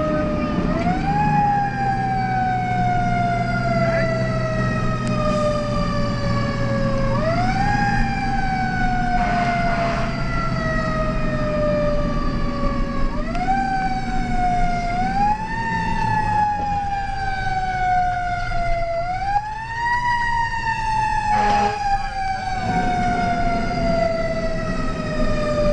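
Fire engine's siren, heard from inside the cab, winding up quickly and then slowly falling in pitch, wound up again every few seconds, over the steady drone of the truck's engine.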